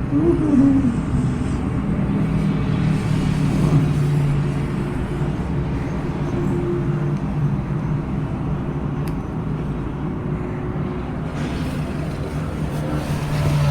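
Domestic cat purring steadily and close, a low rough rumble, with a brief short trill about half a second in.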